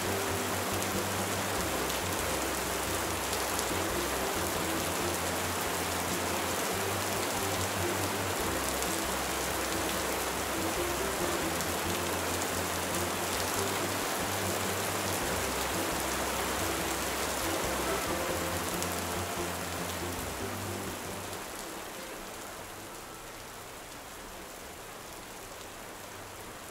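Steady heavy rain falling, a dense hiss of drops on water and foliage, easing to a quieter patter about 20 seconds in.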